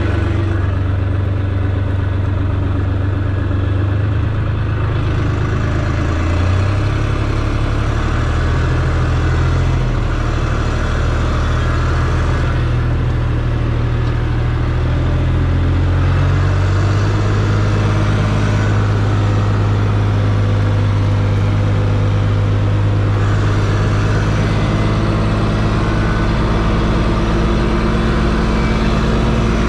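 Case C60 tractor's diesel engine running steadily, skidding a chained bunch of felled trees; its engine note steps to a new speed a few times, about five, seven and seventeen seconds in.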